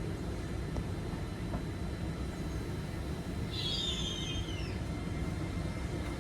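Low steady rumble of a train approaching the station, with a short chirping bird call about halfway through.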